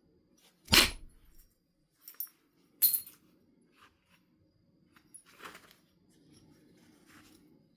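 Flint being knapped: a sharp percussion strike on the stone about a second in, followed by two lighter bright clinks of stone and flakes, then softer scraping and rustling of the piece being handled.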